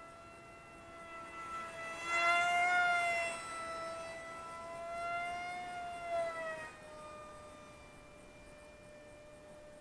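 Electric brushless motor and pusher propeller of an RC foam jet in flight, a steady whine that swells and rises slightly in pitch twice as the plane passes, then drops in pitch about six and a half seconds in and carries on fainter as it moves away.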